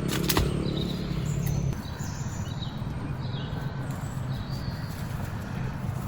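A few short bird chirps over a steady low rumble, with a sharp click just after the start.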